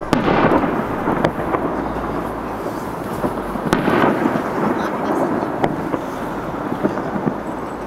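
Aerial fireworks shells bursting: about half a dozen sharp bangs spread over the stretch, each trailing into a continuous rolling, echoing rumble.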